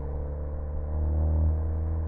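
Ford Focus ST engine and exhaust droning at steady revs, a deep hum with no crackles or pops. It swells slightly about halfway through, then eases.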